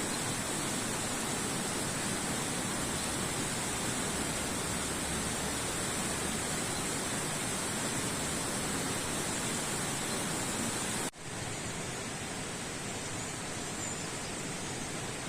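Steady outdoor rushing noise with a high hiss on top. A little after eleven seconds it changes abruptly to a slightly quieter rushing noise without the high hiss.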